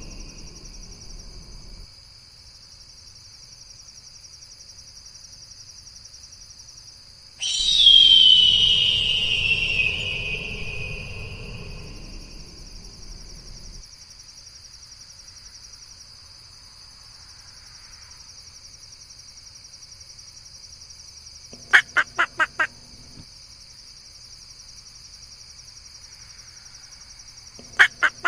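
A bird's single loud scream that falls in pitch and trails off over several seconds. Later come two short rapid series of about five calls each, some six seconds apart, over a steady high hiss.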